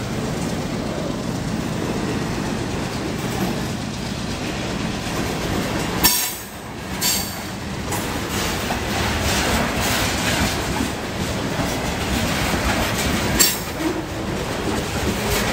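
BNSF mixed freight train's cars rolling past at close range: a steady rumble and clatter of steel wheels on the rails. There is a sharp click with a brief dip in the sound about six seconds in, and another click near the end.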